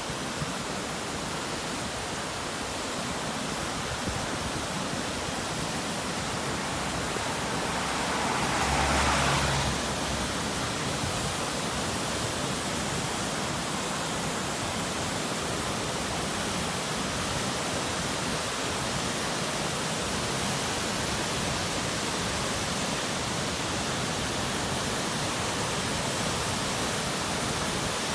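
Waterfall: a steady rush of falling water, with a brief louder swell about a third of the way in.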